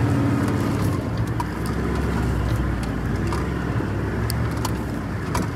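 Four-wheel drive's engine pulling in low gear up a steep dirt bank, heard from inside the cab. It eases off after about a second, with a few small knocks and rattles over the running engine.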